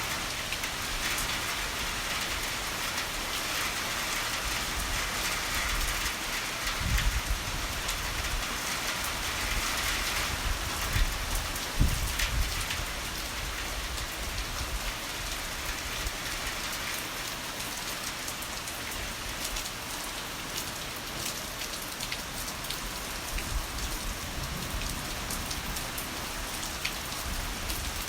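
Heavy rain falling steadily, with low rumbles of thunder about a quarter of the way in and again near the middle.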